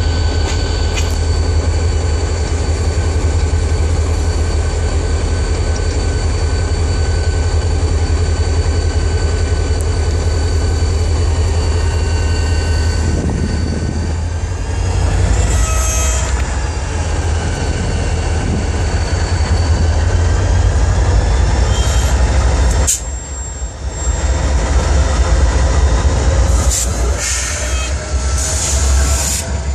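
Freight train passing close by, led by EMD SD40T-2 and GE Dash 9-40BBW diesel-electric locomotives: a heavy, steady engine rumble under the rolling of steel wheels on rail, with a steady high wheel squeal through the first half. The loudness dips briefly about two-thirds through.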